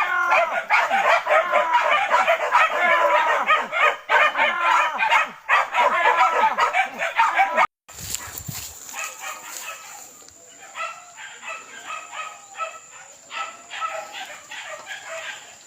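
A pack of hunting dogs barking and yelping fast and without pause. About eight seconds in, the sound cuts off abruptly and comes back as fainter, sparser barking.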